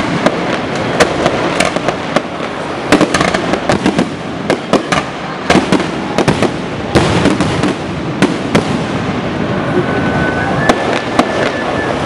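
Aerial firework shells bursting overhead in quick succession: sharp bangs several times a second over a continuous rumble. A faint thin whistle near the end.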